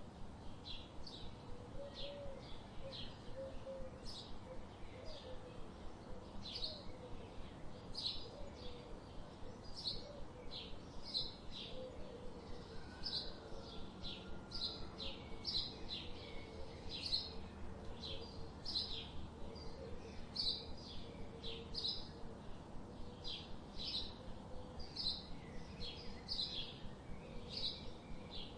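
Small birds chirping: short, high chirps repeated evenly, about two to three a second, over a faint background hum.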